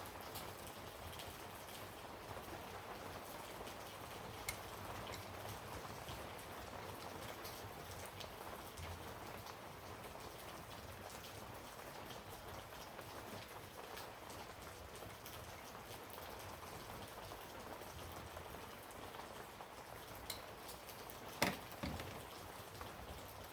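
Faint steady hiss throughout, with a few light clicks and a sharper click near the end.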